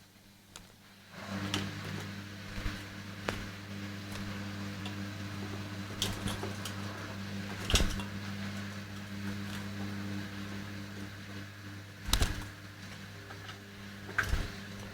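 A steady electric hum, like a small appliance motor, comes on about a second in and keeps running, with a few sharp clicks and knocks over it.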